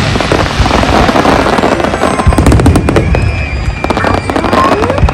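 Large aerial fireworks display: rapid, overlapping bangs and crackling shell bursts.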